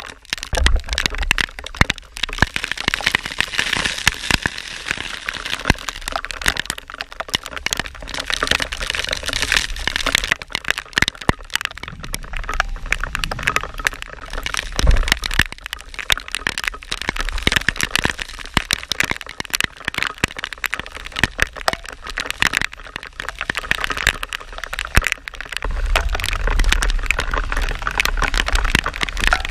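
Inline skate wheels rolling over wet pavement in the rain, heard as a dense, irregular crackling. Wind rumbles on the microphone about a second in, midway through and near the end.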